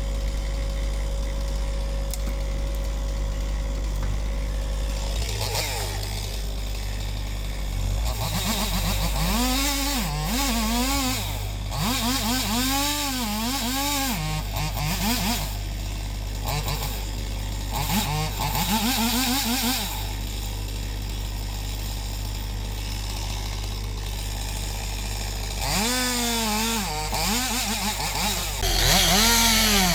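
A chainsaw revs up and down in short repeated bursts, in several runs with pauses, from about eight seconds in, with hard revving again near the end. Under it an excavator's diesel engine idles steadily.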